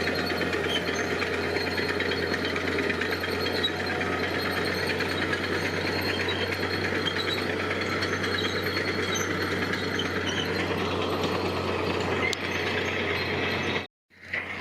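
Diesel engine of heavy construction machinery running steadily with a rapid mechanical clatter; the sound cuts out abruptly near the end.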